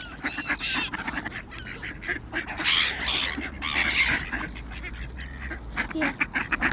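A crowd of ducks and seagulls calling over one another while being fed bread: many overlapping squawks and quacks.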